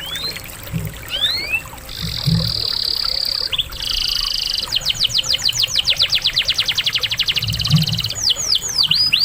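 Canary song: rising whistled slurs, buzzy held trills, and a long run of fast repeated notes that speeds up, followed by a string of quick rising notes.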